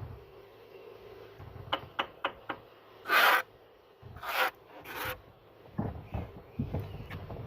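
Bricklayer's trowel working mortar: three loud scrapes near the middle, with lighter taps and short scrapes before and after.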